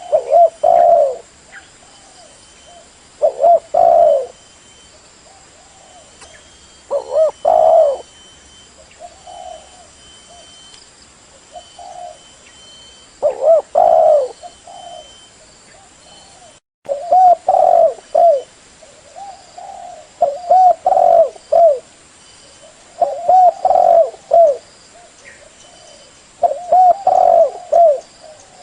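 Spotted dove cooing: repeated short phrases of low coos, each about a second long, with gaps of a second or two between them. This is the song used as a lure call to draw in doves.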